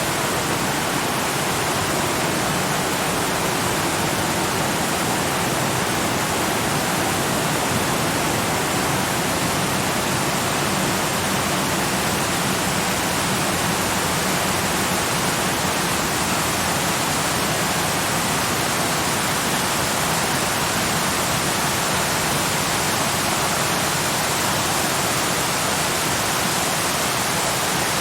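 Waterfall, water rushing in a steady, unbroken roar.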